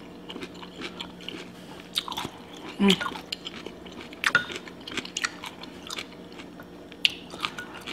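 Close-up crunching and chewing of a dipped raw cucumber: a few sharp, crisp bites and then wet chewing, over a faint steady hum.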